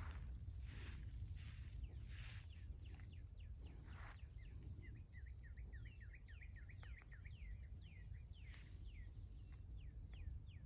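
Birds chirping in many short, quick falling notes, thickest around the middle, over a faint low rumble and a steady high hiss.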